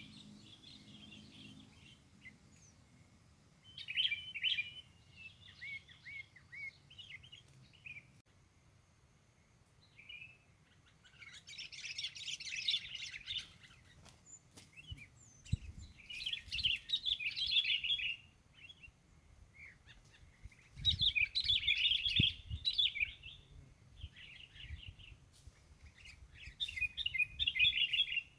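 Songbird singing in about five short phrases of rapid, varied chirping notes, each one to three seconds long, with pauses of a few seconds between them.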